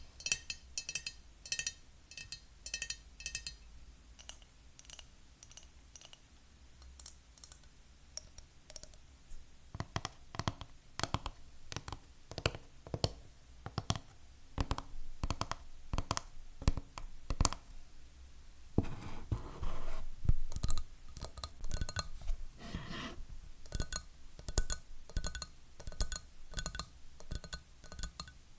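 Fingernails tapping on hard objects in changing runs: quick taps that ring with a clear tone at first, then sparse light clicks, then heavier, deeper taps. About two-thirds through there is a few seconds of scratching, followed by more ringing taps.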